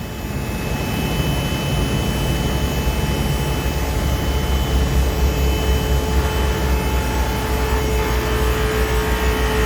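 Two-post car hoist's electric hydraulic pump running steadily as it lifts the car, a low hum with a thin whine over it.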